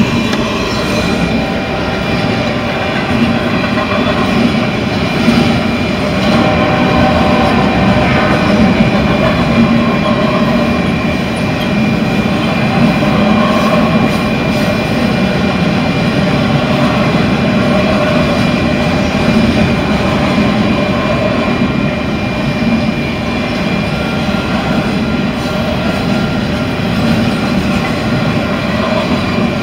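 A double-stack container freight train rolling steadily past a grade crossing: a loud, continuous rumble of steel wheels on rail. A few faint, steady high-pitched tones run through it.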